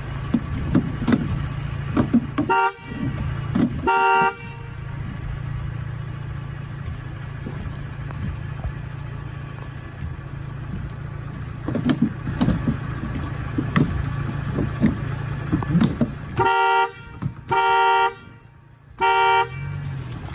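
A vehicle horn honks: two short toots a few seconds in, then three longer honks near the end, over the steady low hum of an idling engine.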